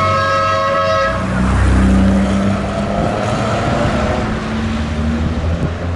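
A car horn sounds and cuts off about a second in, over the engine of a historic rally car running. The engine sound carries on after the horn stops.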